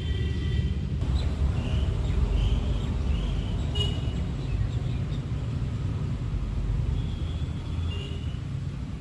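Steady low outdoor rumble with a few short, high chirps scattered through it and a single faint click a few seconds in.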